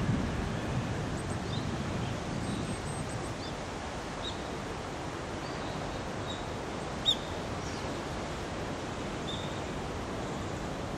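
Birds giving short, high chirps now and then over a steady rushing background noise, with one sharper call about seven seconds in.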